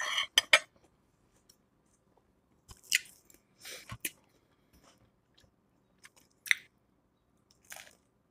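A person chewing crunchy food close to the microphone. A handful of short, crisp crunches come at irregular intervals, the sharpest about half a second, three seconds and six and a half seconds in.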